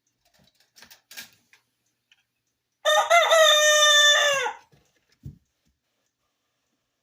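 A rooster crows once: a single call of nearly two seconds that drops in pitch at the end. A few faint clicks come before it and a short low thump follows just after.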